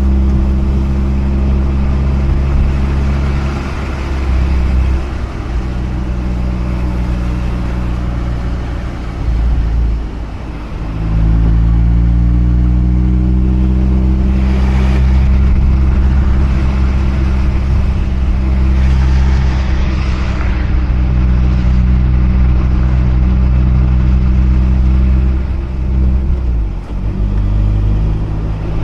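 Mazda RX-8's twin-rotor Renesis rotary engine running as the car is driven. Its note drops away about ten seconds in, then comes back and climbs in pitch, with another short break near the end.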